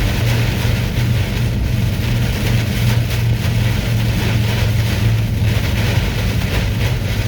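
Semi truck driving, heard from inside the cab: a steady low engine drone under a constant hiss of wind and heavy rain against the truck.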